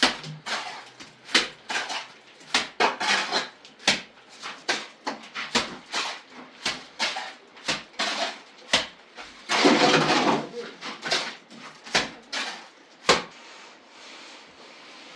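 Irregular clinks and knocks of hard objects being handled, two or three a second, with a longer clatter about ten seconds in. The knocking stops about thirteen seconds in.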